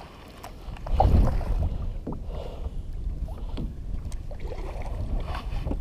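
Sounds of a fishing kayak on the water: a low rumble that rises about a second in, then soft swishes and light knocks at irregular intervals.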